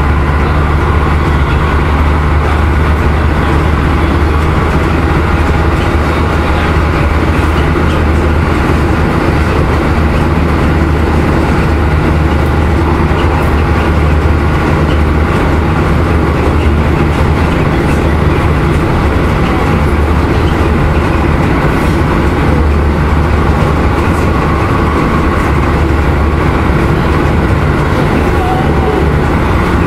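Interior running noise of a Keisei 3050-series electric train cruising at about 110–116 km/h: a steady low rumble of wheels on the rails and the bogies beneath the car.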